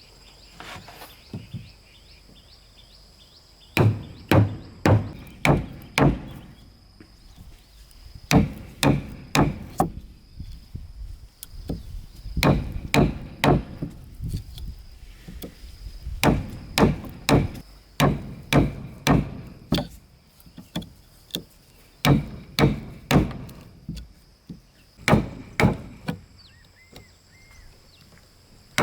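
Repeated blows of a hand tool striking wood, in runs of four to eight strikes at about two or three a second, with short pauses between runs.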